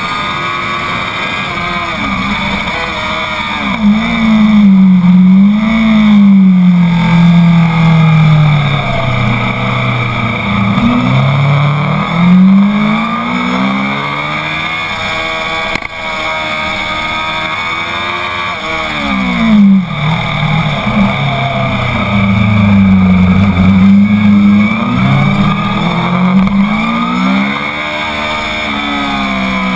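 Honda CBR1000RR's inline-four engine at full effort on track, pitch climbing hard through the gears and falling back for corners, with two deep drops a third and two-thirds of the way in before it revs up again.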